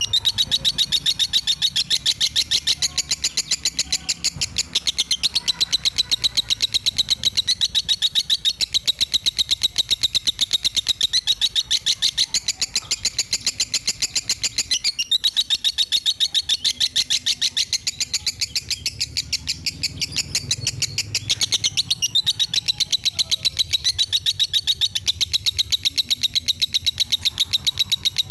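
Lovebird singing in the fighter style: a long, unbroken run of rapid, high chirps repeated several times a second, with a brief break about fifteen seconds in.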